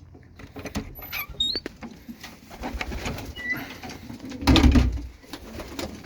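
Pigeons in a loft shuffling and rustling, with scattered small clicks and a few short high chirps, and a loud low burst of rustling about four and a half seconds in.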